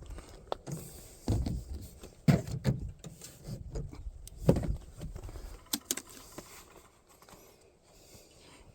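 Handling noise: irregular knocks, thuds and clicks with some rustling, loudest in the first half and quieter near the end.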